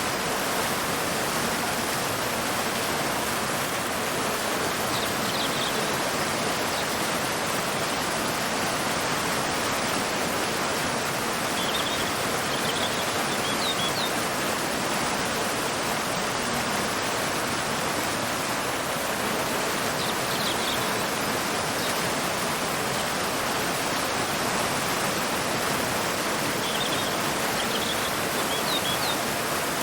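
Waterfall and river water rushing in a steady, even stream. A small bird chirps faintly a few times, in short high clusters.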